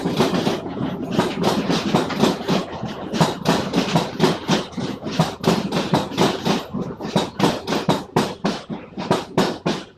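Renfe train rolling past, its wheels clattering over the track in rapid, irregular knocks that thin out near the end.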